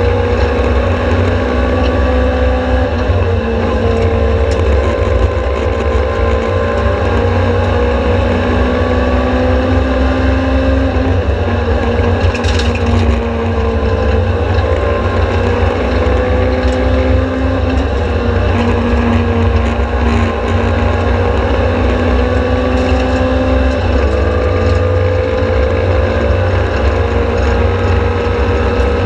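Competition car's engine pulling hard under full throttle, heard from inside the cockpit. Its pitch climbs through each gear and drops back at every upshift or lift, over a heavy low rumble from road and drivetrain.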